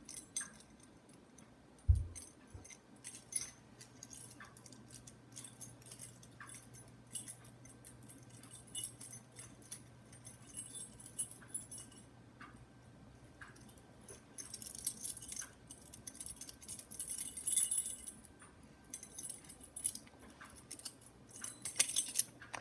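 Light metallic jingling and scattered small clicks close to the microphone, thicker for a few seconds past the middle, with one dull thump about two seconds in.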